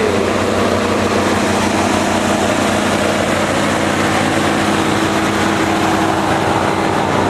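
1981 Chevy G30 motorhome's 5.7-litre gasoline V8 idling steadily, still cold from a start after sitting a month at about 35 degrees.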